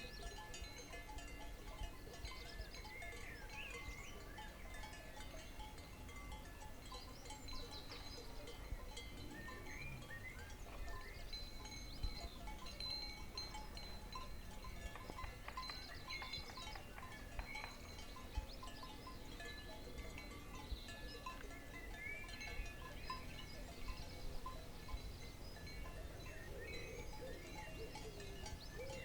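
Cowbells on grazing cattle, clanking and ringing faintly and irregularly, many bells at different pitches overlapping.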